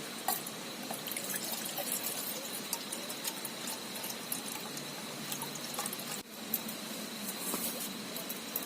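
River water flowing steadily, with scattered small sharp clicks and a thin, steady high-pitched tone over it.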